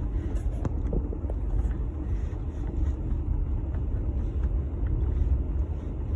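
Jeep Gladiator driving through snow: a steady low rumble of engine and tyres, with a few light ticks scattered through it.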